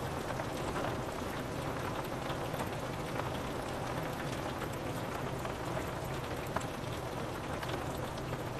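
Steady rain pattering on window glass, with a dense spread of small drop ticks over a low, even rumble.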